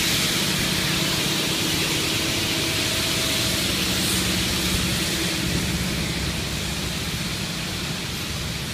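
A steam-hauled heritage train's water tank wagons and passenger carriages rolling past on the rails, a steady rush of wheel and running noise that eases slightly toward the end as the train draws away.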